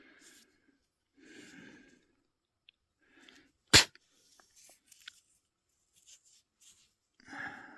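A single sudden, sharp burst about four seconds in, by far the loudest sound, amid faint scattered rustles and breaths.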